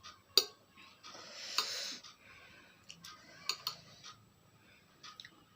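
Close-up eating sounds of spicy instant noodles: a slurp swelling about a second in, with sharp wet clicks of lips and mouth scattered through.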